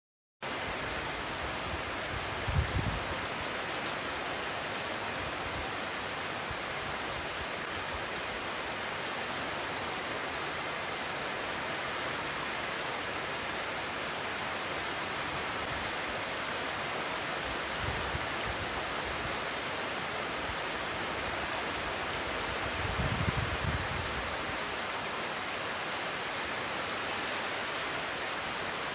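Steady rain falling, an even hiss. Three times, briefly, a low rumble of wind gusting over the microphone rises above it.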